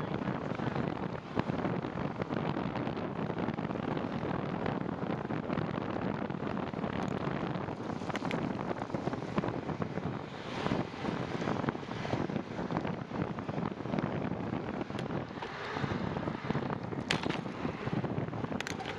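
Wind rushing steadily over the microphone while riding in the rain, with a few sharp clicks near the end.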